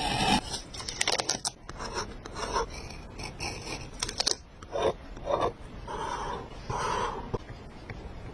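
Paper and stickers being handled on a journal page: a series of short, irregular scraping and rubbing strokes, with a rasping pull right at the start.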